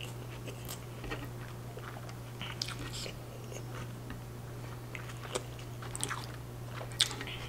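Close-miked chewing of a street taco, with scattered wet mouth clicks and small crunches, the sharpest about seven seconds in. A steady low hum runs underneath.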